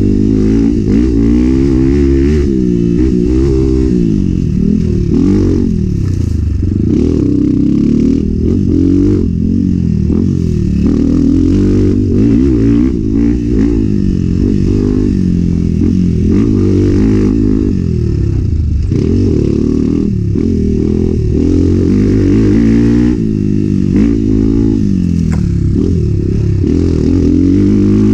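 Enduro motorcycle engine revving up and down again and again, its pitch rising and falling with the throttle and gear changes as the bike is ridden hard.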